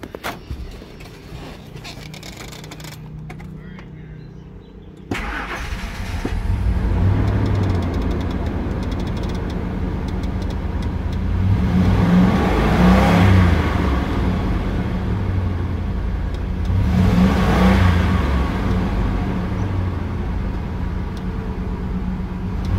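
Ford Expedition engine starting about five seconds in, then running and revved up twice, with a new fuel pressure regulator fitted in place of one that leaked fuel into the intake vacuum line and flooded the engine.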